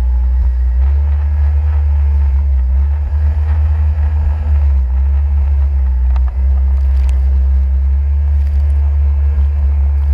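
Jet ski running steadily under way: a loud, steady, deep rumble.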